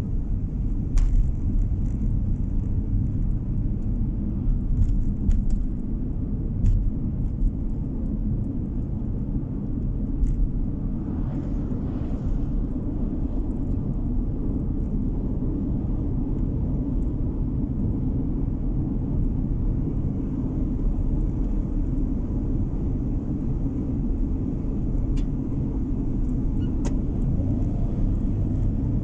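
Steady low rumble of a car driving, engine and tyre noise heard from inside the cabin, with a few faint clicks and a brief swell of hiss about eleven seconds in.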